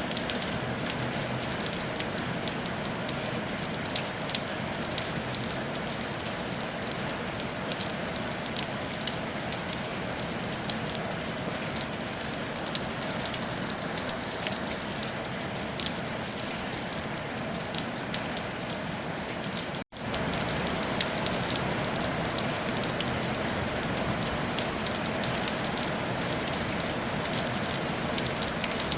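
Steady rain falling on a tile roof, a dense hiss full of small drop ticks. The sound cuts out for an instant about twenty seconds in.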